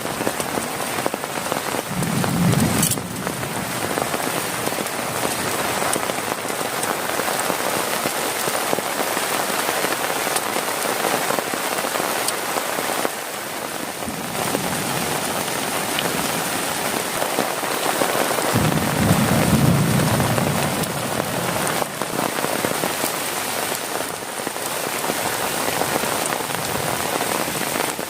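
Heavy rain pelting steadily on a tent's plastic tarp, a dense even patter. A low rumble swells briefly twice, about two seconds in and again near the twenty-second mark.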